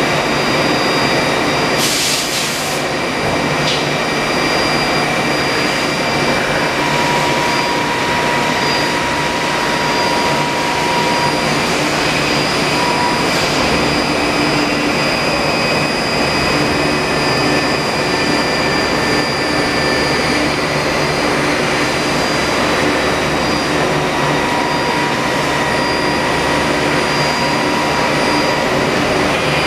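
Spinner TC-600 CNC lathe running: a loud, steady machine hiss and hum with several high steady whines over it. A short hissing blast comes about two seconds in, and a steady mid-pitched tone comes and goes twice.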